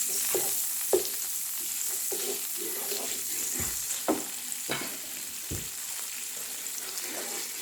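Butter sizzling as it melts in a frying pan, with a steady high hiss, while a utensil spreads it around the pan with several short scrapes and taps.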